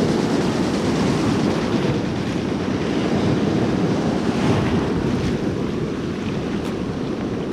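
Ocean surf washing on a beach, with wind buffeting the microphone: a steady, loud rush of noise.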